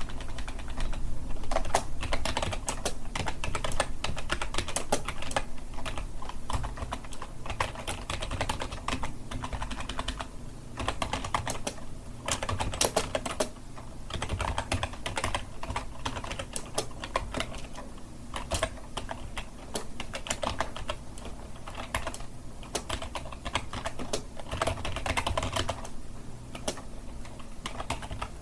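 Computer keyboard being typed on continuously: fast, dense key clicks with short pauses between bursts.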